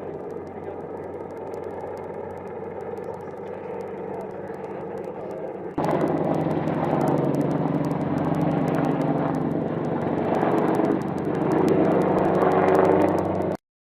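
AH-64 Apache helicopter's engines and rotor making a steady droning hum. The hum gets louder and harsher about six seconds in and cuts off abruptly near the end.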